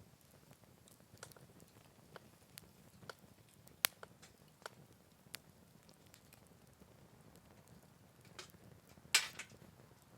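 Campfire crackling in a Picogrill 398 fire stand: scattered sharp pops over a faint steady background, with a loud snap about four seconds in and a louder burst of crackling about nine seconds in.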